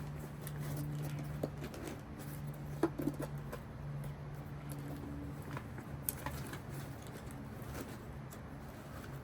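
Scattered light clicks and taps, loudest a few at a time about three seconds in, over a steady low hum.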